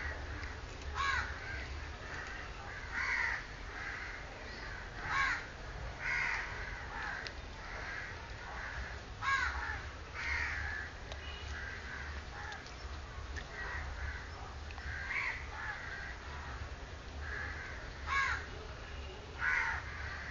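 Two-day-old Pomeranian-cross puppies squeaking and whining, short high cries sliding in pitch about every second or two over a steady chatter of smaller squeaks, with a low hum underneath.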